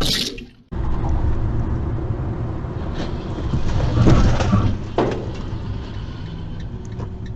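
Steady low rumble of a vehicle on the road, with a few short knocks, the loudest about four seconds in. Music fades out just before it starts.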